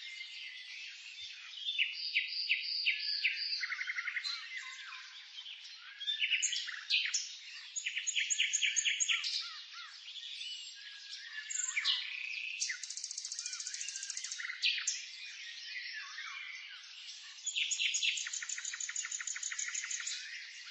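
Several songbirds singing at once, a mix of rapid trills, chirp series and short whistled notes that overlap and change throughout.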